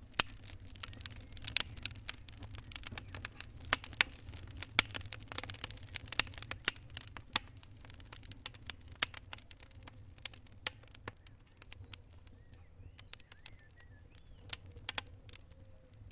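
Wood fire crackling: irregular sharp pops and snaps over a low steady rumble, coming thick and fast at first and thinning out in the second half.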